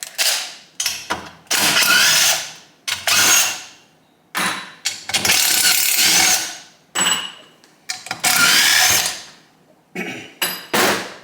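Handheld power tool run in about half a dozen short bursts, its motor whining up in pitch as it spins up each time.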